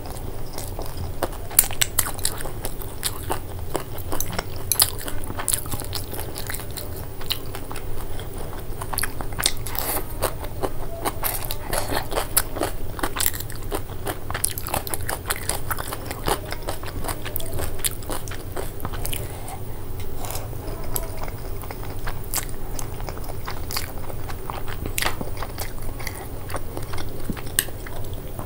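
Close-miked eating sounds: a person chewing and biting food, with dense, irregular wet clicks and crunches throughout, over a steady low hum.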